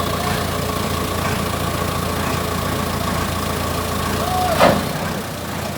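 Forklift engine running steadily at idle, with a sharp clunk about four and a half seconds in; just after the clunk the low engine hum drops away.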